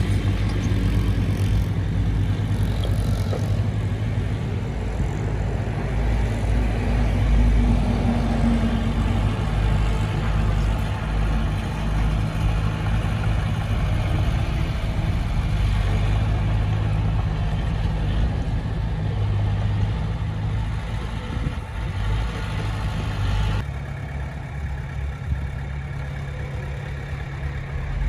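Heavy diesel engine of earthmoving equipment running steadily with a deep, even drone. Near the end the sound changes abruptly, its deepest part dropping away.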